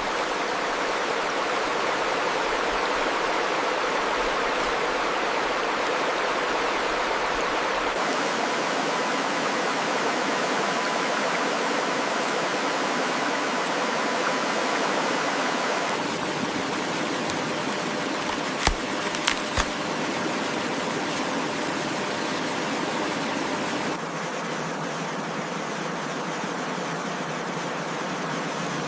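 Steady rushing noise of flowing water. Its tone shifts abruptly about every eight seconds, and there are two short sharp clicks a little past halfway.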